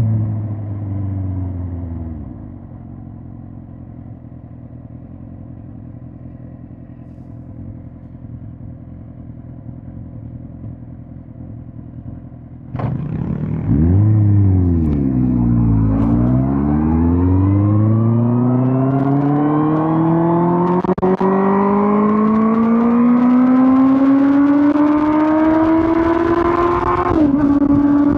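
Suzuki GSX-R1000 K5's inline-four engine heard from the rider's seat. It slows to a steady, quieter idle, then about halfway through jumps to a loud rev as the bike pulls away. The revs climb steadily under acceleration and drop sharply at an upshift near the end.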